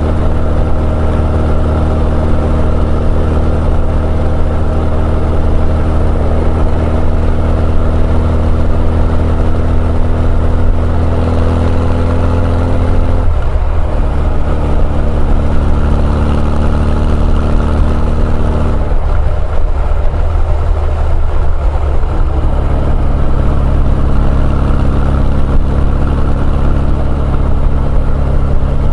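Honda CB1100EX's air-cooled inline-four running under way through an r's gear Wyvern Classic aftermarket exhaust, at a steady speed. The engine note breaks and shifts to a new steady pitch twice, about halfway through and again about two-thirds through.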